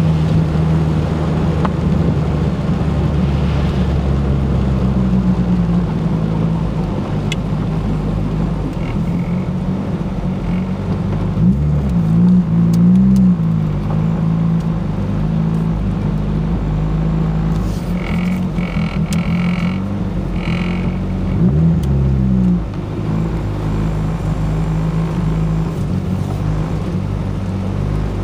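Turbocharged Ford Focus engine idling, revved up briefly twice, about halfway through and again about three-quarters through. It has a bad idle that a newly installed coil pack has not cured; the owner suspects a misfire from the plug wires or a fuel injector in cylinder 2.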